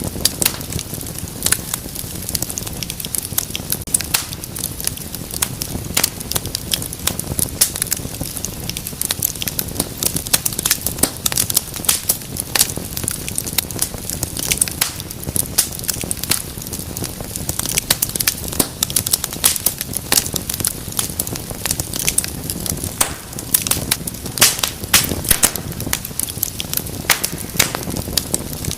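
Wood fire crackling and popping, many sharp pops over a steady low rumble of flame.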